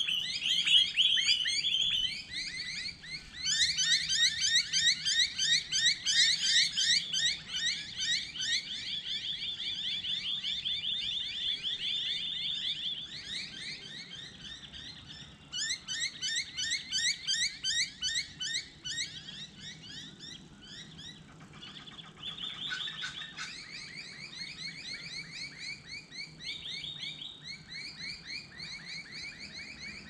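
Several birds calling at once in long runs of rapid, repeated high notes. The overlapping trills are loudest in the first half.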